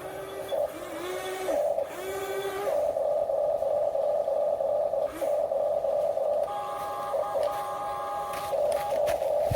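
Electric motors and gearboxes of radio-controlled construction models whining steadily, with a second motor's whine rising and falling in pitch in the first few seconds and a higher-pitched motor whine joining about six seconds in.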